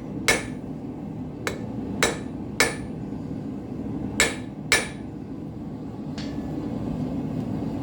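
Hand hammer striking hot steel on an anvil, rounding off the corners of a fire steel. Six sharp, ringing blows come in the first five seconds, some in quick pairs, and a fainter knock follows about six seconds in. A steady low rush of the propane forge runs underneath.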